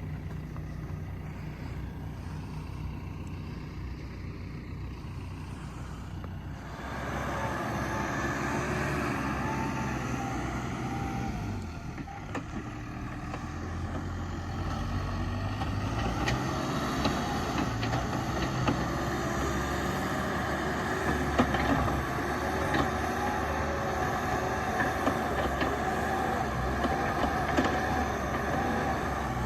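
Excavator engine running steadily. About seven seconds in it gets louder and a higher wavering whine joins it, with occasional knocks.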